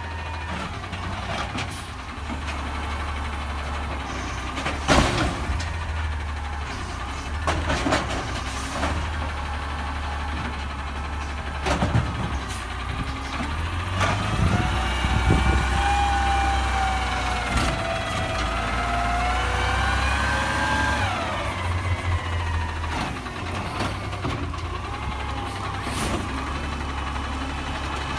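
Garbage truck's diesel engine running with a steady low rumble and several sharp clanks; from about halfway through, a whine rises and falls for several seconds as the engine revs to drive the truck's hydraulics, then drops back.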